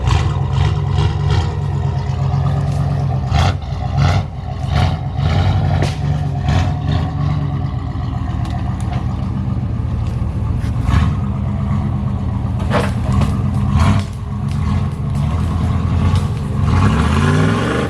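Off-road truck engine running steadily under load, with sharp knocks and clatter from the vehicle at intervals. Its revs climb near the end.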